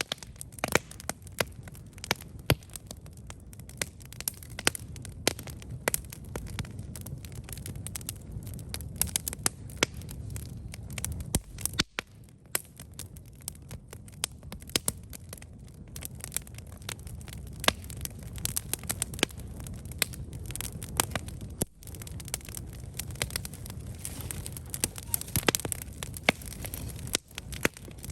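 Wood campfire burning, crackling with frequent irregular sharp pops over a low steady rumble, with a couple of brief dropouts where the sound cuts out for an instant.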